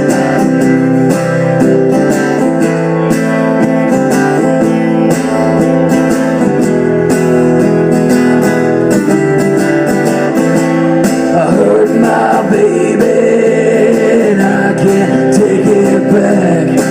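Guitar playing an instrumental break in a blues-country song, with steady strummed chords. Past the halfway point a wavering lead melody comes in over the chords.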